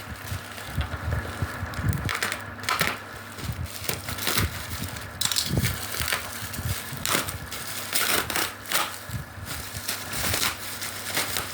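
Packaging of a foam cleanser being handled and opened: irregular crinkling and rustling with scattered taps and scrapes.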